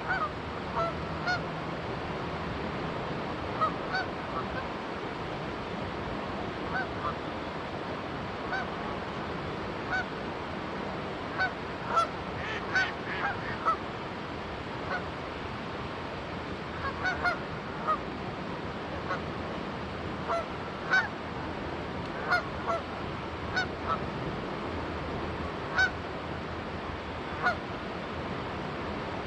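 Canada geese honking in short calls, scattered singly and in quick clusters, over the steady rush of a flowing river.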